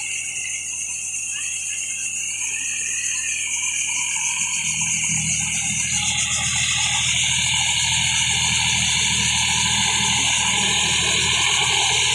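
Sonalika Supreme DI 50 HP tractor's diesel engine running steadily, growing louder from about four seconds in, with a steady high hiss over it.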